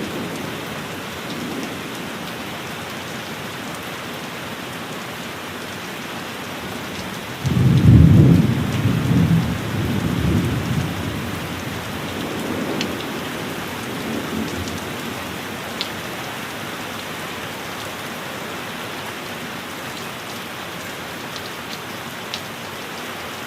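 Steady heavy rain with a loud thunderclap about seven and a half seconds in, its rumble rolling on and fading over the next several seconds.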